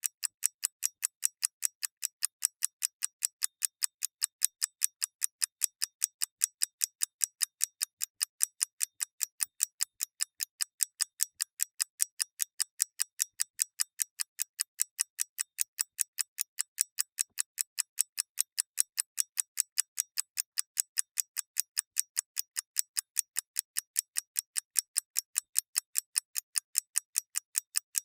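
Mechanical clock ticking in a fast, even rhythm of several sharp, high-pitched ticks a second.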